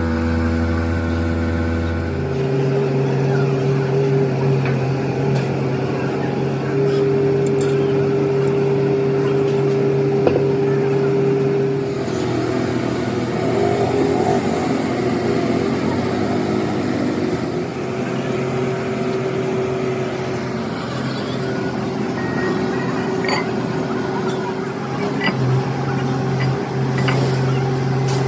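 A motor or machine running with a steady hum that changes pitch about two seconds in and shifts again about halfway through, with light clatter over it.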